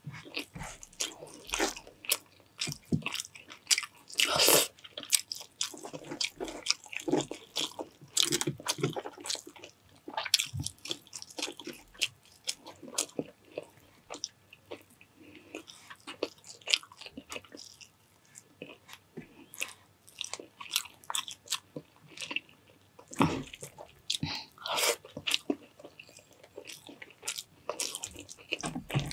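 Close-miked eating: a person biting and chewing mouthfuls of fried rice and breakfast meats, with irregular wet mouth clicks and smacks that thin out for a few seconds in the middle.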